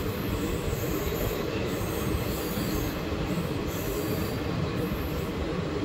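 Wheels of an ICF passenger coach running along the rails: a steady track noise heard from on board the moving train.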